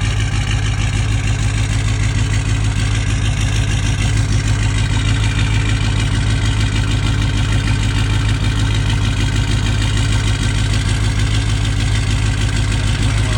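LB7 Duramax 6.6-litre V8 turbodiesel idling steadily after a cold start, with an even, fast diesel clatter over a deep steady hum.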